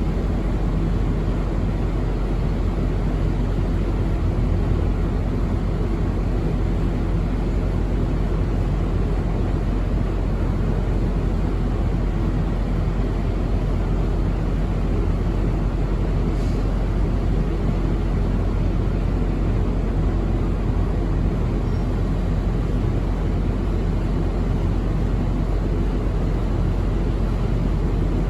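Car ferry's diesel engines running with a steady low drone.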